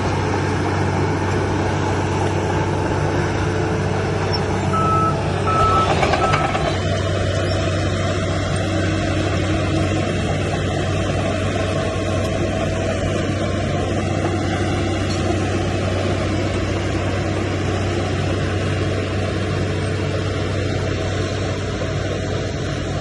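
Heavy earthmoving machinery's diesel engine running steadily with a low hum. A reversing alarm beeps three times about five seconds in, as a machine backs up.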